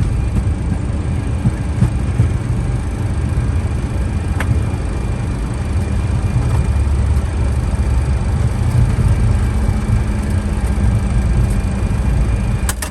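Steady low rumble inside an MD-80's cockpit as the airliner rolls out on the runway after landing, with a single sharp click about four seconds in.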